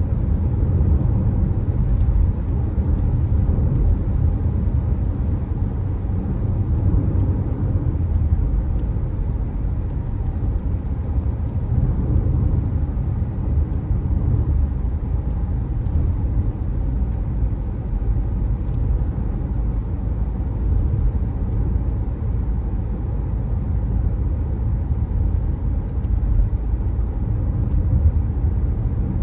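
Car driving at a steady pace: a continuous low rumble of engine and tyres on the road.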